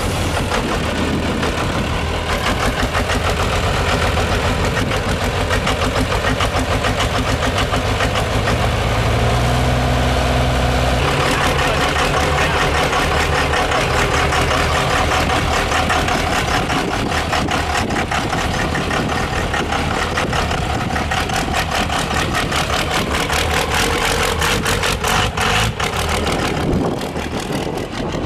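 Diesel truck engine idling and running at low speed, with one brief rise in engine speed about ten seconds in that cuts off sharply.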